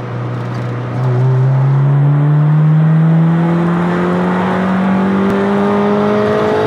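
Honda D16Y7 1.6-litre four-cylinder engine, air filter removed, accelerating hard in second gear, heard from inside the car. Its pitch rises steadily as the revs climb, and it gets louder about a second in.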